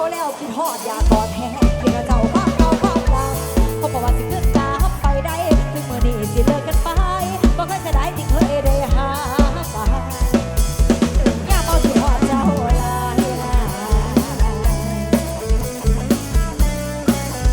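Live Isan luk thung band playing an instrumental passage through a rot hae sound truck's system: a steady drum-kit beat with a heavy bass drum under a wavering melody line.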